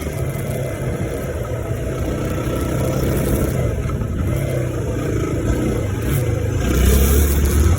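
Dirt bike engine running as the bike is ridden, its pitch rising and falling with the throttle, with a louder surge near the end.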